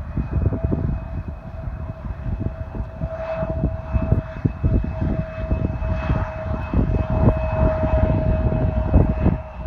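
Aircraft engines running with a steady whine that stops just before the end, over wind buffeting the microphone.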